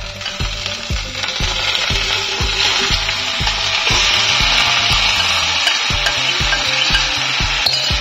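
Marinated chicken pieces sizzling as they hit hot oil in a wok and are turned with a metal spatula. The sizzle grows louder over the first few seconds, then holds steady. A steady beat of background music runs underneath.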